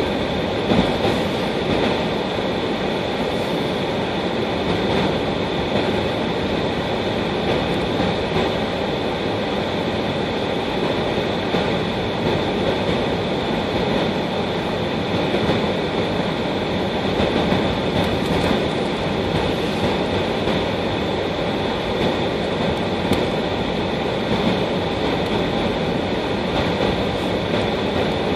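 Steady rumble of a car driving on snowy roads, tyre and engine noise with no change in pace.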